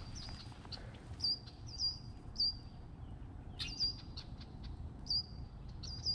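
A songbird calling over and over: short high notes, each a quick flick trailing into a brief level tone, about once or twice a second.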